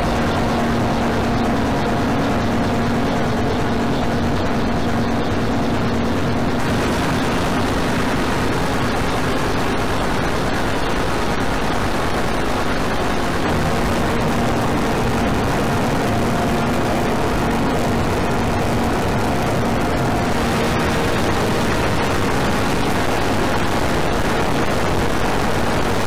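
Loud, dense, distorted electronic noise drone with a low steady hum and faint held tones under it. It grows brighter and harsher about a quarter of the way in and shifts again later on.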